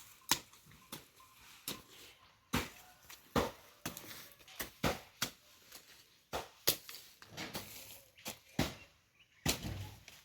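Hand hoe chopping into garden soil over and over: short, sharp strikes at an uneven pace of roughly one or two a second.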